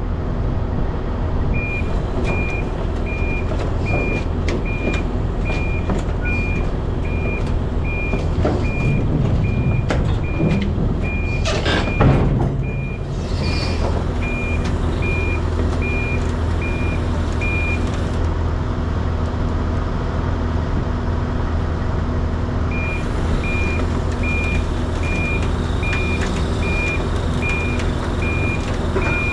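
A semi truck's engine running steadily while its backup alarm beeps evenly, a little faster than once a second. The beeping stops for a few seconds past the middle and then starts again. A short, loud hiss comes near the middle.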